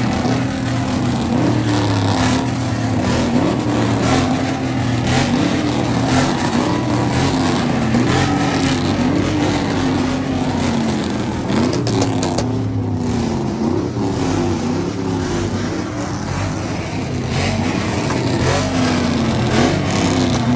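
A vehicle engine running and being revved over and over, its pitch jumping up and sinking back roughly every second or so.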